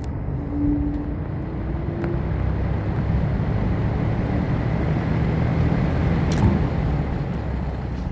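1970s Superior Electric metal-bladed box fan running, a steady low rumble of motor and rushing air, with a single sharp click about six and a half seconds in.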